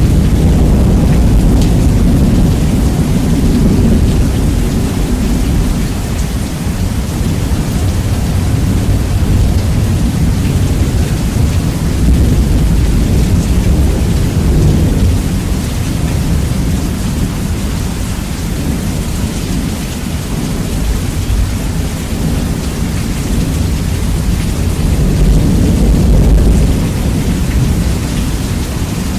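Steady rain with rolling thunder, its low end heavily bass-boosted and very loud. The rumble swells at the start, again about halfway through and once more near the end.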